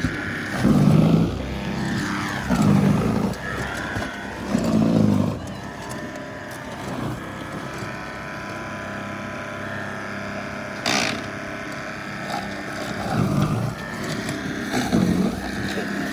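Gas snowblower engine running steadily while it clears heavy, wet snow, with several louder swells about a second long. A sharp knock comes about eleven seconds in.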